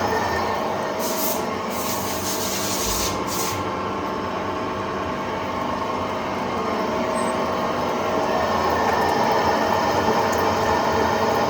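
CNC lathe running as it machines a pellet mill roller: a steady machine hum made up of several held tones, with a high hiss from about one to three and a half seconds in.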